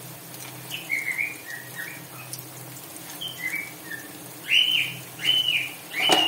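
A bird calling repeatedly: a few short chirps about a second in, then from about four and a half seconds in a run of louder arched whistled notes, roughly one every 0.7 seconds. Underneath is a faint steady sizzle of onions and whole spices frying in oil.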